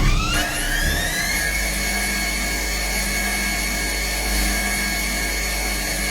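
A machine's motor whining up to speed over the first second and a half, then running at a steady high pitch over a low hum.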